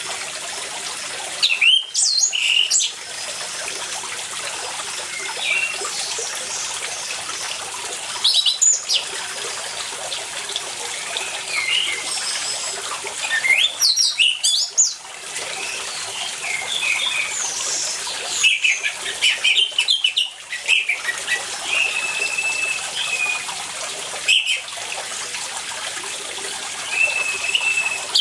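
Orange-headed thrush singing in short bursts of quick, varied whistled phrases every few seconds, over a steady hiss of running water.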